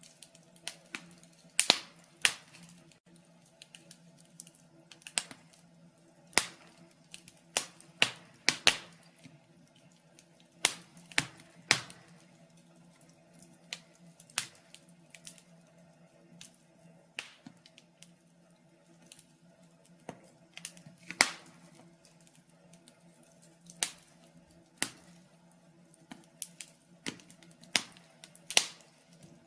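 Wood fire in a fireplace crackling, with irregular sharp pops every second or so and a few louder snaps, over a faint steady hum.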